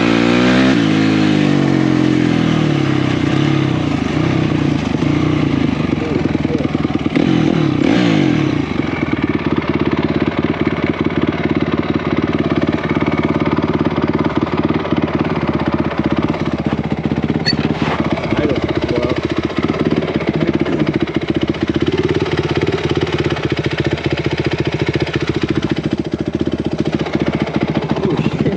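Single-cylinder four-stroke off-road engine at race pace, revving up and down through gear changes in the first second and again around eight seconds in. After that it holds a fairly steady high speed.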